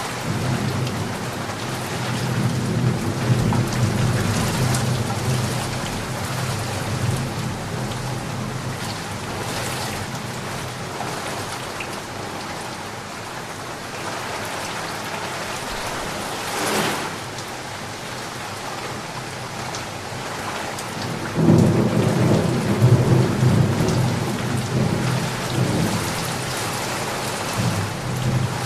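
Steady rain with rolling thunder. A low rumble of thunder runs through the first few seconds and returns louder about three-quarters of the way in.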